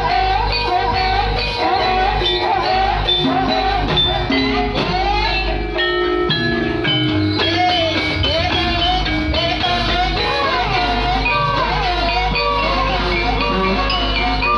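Javanese gamelan music accompanying an ebeg horse dance: many short struck metal tones in a steady rhythm, with a wavering, gliding melody line over them.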